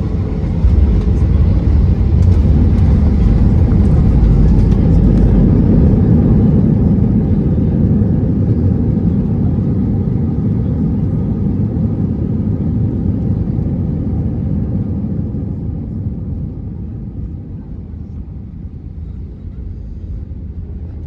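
Airbus A320-214 cabin noise during the landing roll. The CFM56 engines' low rumble rises sharply about a second in, typical of reverse thrust, then dies down gradually as the aircraft slows on the runway.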